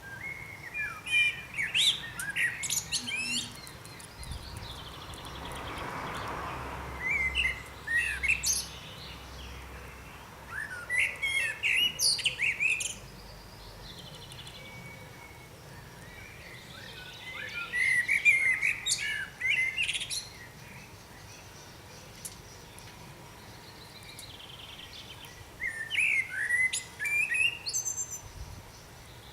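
A songbird singing: five phrases of quick twittering and chirping notes, each two to three seconds long and several seconds apart.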